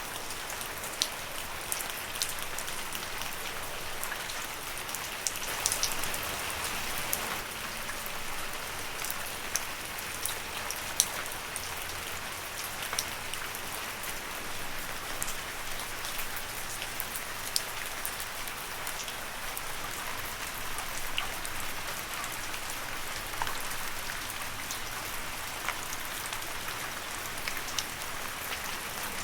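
Steady rain falling on leaves: an even hiss with individual drops ticking sharply on top, a few louder drops standing out.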